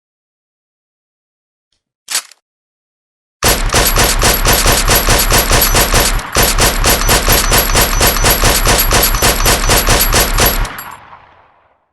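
Suppressed SIG 516 rifle firing fully automatic: two long bursts of rapid shots with a brief break between them, the shots dying away in an echoing tail. A short click comes just before the firing.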